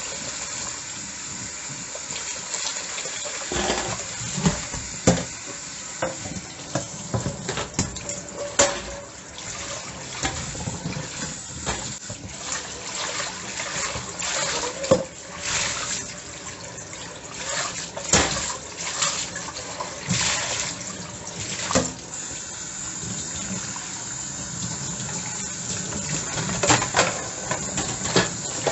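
Tap water running steadily into a sink while dishes are washed, with frequent sharp clinks and knocks of dishes against each other and the sink, busiest through the middle.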